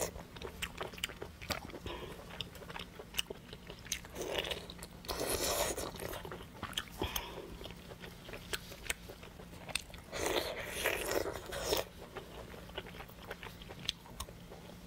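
Close-miked biting and chewing of braised braided pork intestine: wet, smacking mouth clicks throughout, with two longer stretches of heavier chewing about four and ten seconds in.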